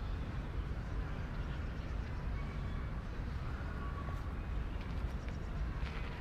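Outdoor city ambience: a steady low rumble, as of traffic, with a few light clicks about five seconds in.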